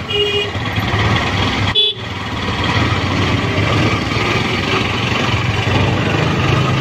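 Busy road traffic heard while riding a motorcycle: steady engine, road and wind noise. A vehicle horn honks briefly at the start and again about two seconds in.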